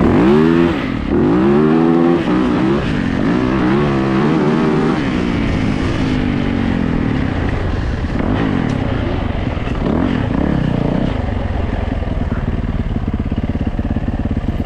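Yamaha YZ450 dirt bike's single-cylinder four-stroke engine revving, its pitch rising and falling repeatedly over the first several seconds, then running more evenly near the end.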